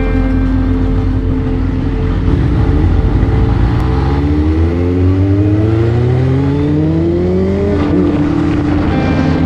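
Motorcycle engine holding steady revs, then pulling up through the revs for about five seconds before dropping back at a gear change, with wind rumble on the microphone.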